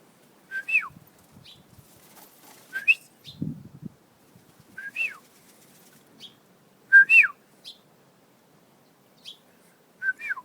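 A person whistling a repeated two-part bird-calling whistle, a short note then a rising-and-falling glide, five times about two seconds apart. Faint short bird chirps come in between.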